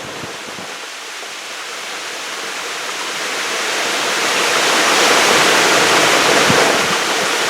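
Waterfall rushing steadily, growing louder over the first five seconds or so and then holding.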